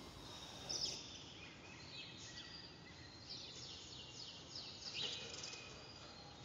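Small birds singing: faint, high chirps and falling trills that come again and again.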